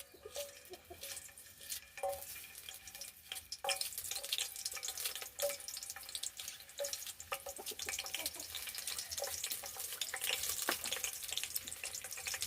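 Cooking fat sizzling and crackling in a hot pan, getting louder about four seconds in and staying busy.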